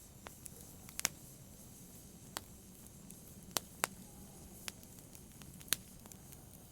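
Wood fire crackling in a fireplace: sharp, irregular pops and snaps, several close together around a second in and near the middle, over a low steady hiss of the burning.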